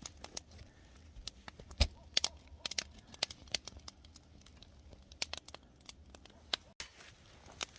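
Wood fire crackling and popping under oysters roasting in their shells: sharp, irregular pops, in quick clusters at times.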